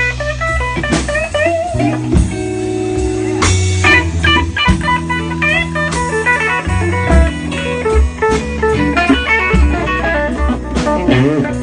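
Live blues band playing a slow blues in B: a guitar lead with bent, wavering notes over bass and drums.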